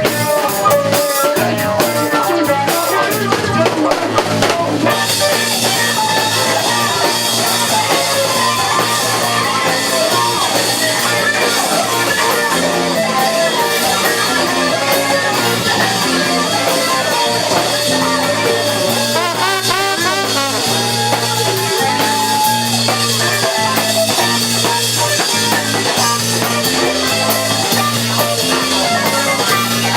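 A rock band playing live, with electric guitar over bass and a drum kit keeping a steady beat; about five seconds in, the cymbals come in heavier and the sound fills out.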